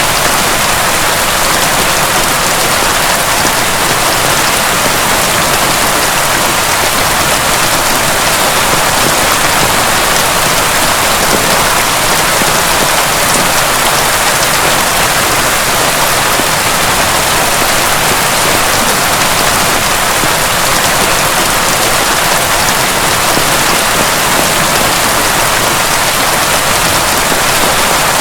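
Heavy rain pouring steadily: a dense, even hiss with no single drops or thunder standing out.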